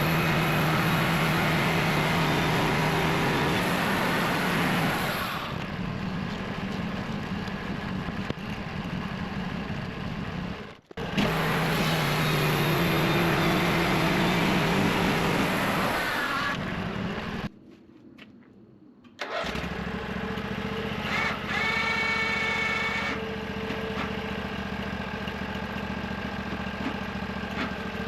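Engine of a homemade sawmill running, loud in two stretches and quieter and steadier in the second half, with abrupt breaks between clips.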